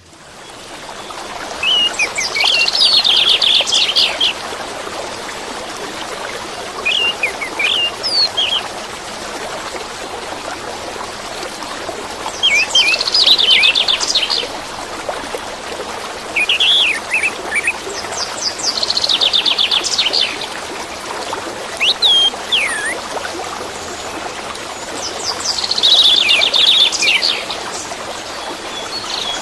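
Orange-headed thrush singing over the steady rush of running water, fading in at the start. Its song comes in phrases of rapid, high trills every six seconds or so, with short whistled notes in between.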